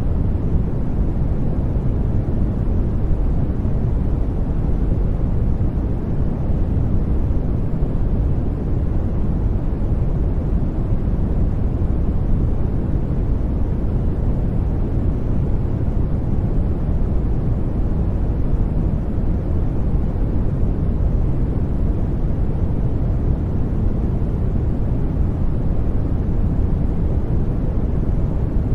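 Continuous white-noise sleep track: an even, unchanging deep rush, heavier in the low end than in the high hiss.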